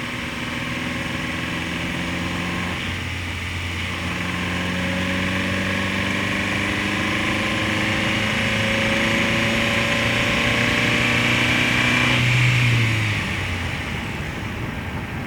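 Nissan Qashqai's 2.0 MR20DE four-cylinder petrol engine running under light throttle while driving, heard close to its right-side accessories; the pitch climbs slowly, then falls away about twelve seconds in as the load comes off. Over it is the chattering the owner hears at speed with a light foot on the gas, which he asks might be engine knock.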